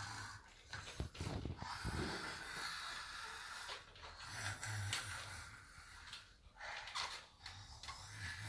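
ZURU Robo Alive fire-breathing dragon toy playing its electronic sound effects: a raspy, hissing breath noise that swells and fades several times, with a few light knocks about a second in.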